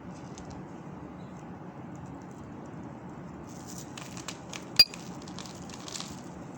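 Soap balls being crushed, crunching with faint crackles at first and denser crackling from about three and a half seconds in, with one sharp crack just before five seconds.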